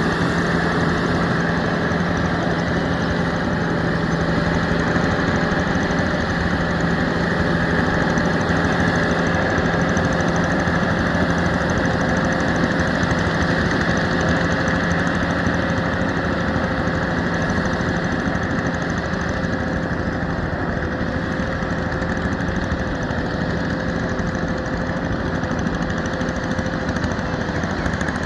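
Yanmar EF725T tractor's diesel engine running steadily at a constant speed, with a hard, knocking diesel clatter.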